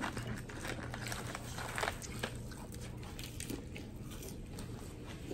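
Close-up eating sounds: biting and chewing fried food, with short crunches and wet mouth clicks scattered through, over a steady low hum.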